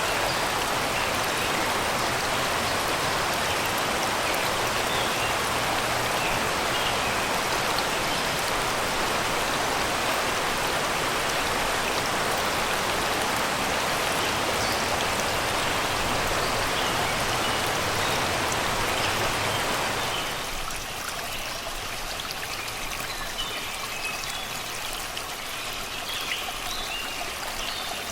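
Shallow river rushing and babbling over rocks and stones, a steady wash of water that turns quieter about two-thirds of the way through. Small birds sing faintly in the forest behind it, heard more clearly once the water quiets.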